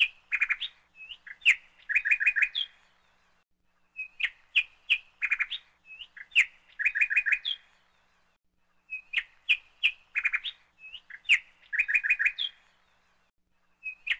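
Small bird chirping in short phrases: a few sharp high chirps, then a quick trill. The same phrase repeats about every four and a half seconds, with silence between phrases.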